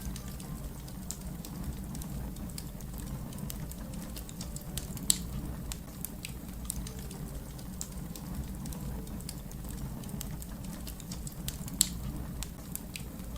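Wood fire crackling: a steady low rumble of burning with scattered small pops and clicks, and two sharper pops, about five seconds in and near the end.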